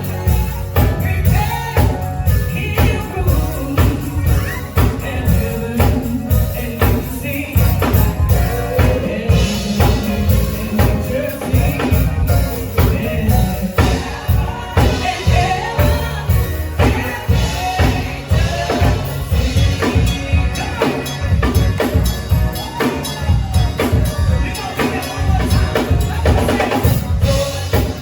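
Live band music with a lead singer over a drum kit and hand percussion, keeping a steady, driving beat in an upbeat gospel style.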